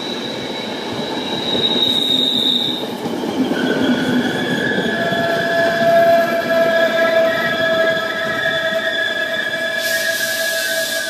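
Trenord regional passenger train rolling past at close range, its wheels rumbling on the rails under several steady, high-pitched squealing tones; it is loudest about halfway through, and a hiss comes in near the end.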